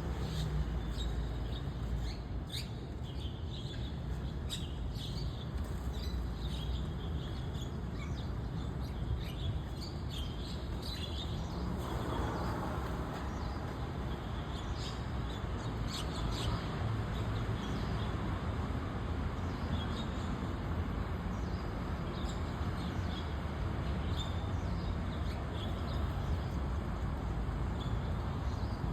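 White-cheeked starlings calling: many short, scattered chirps over a steady low rumble of background noise.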